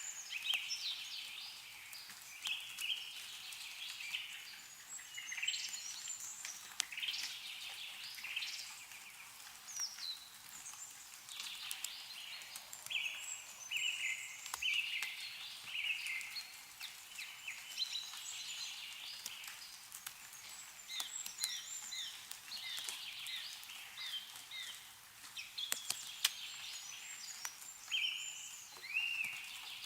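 Several small songbirds chirping and trilling almost continuously, overlapping one another, with scattered faint ticks of meltwater dripping from the trees.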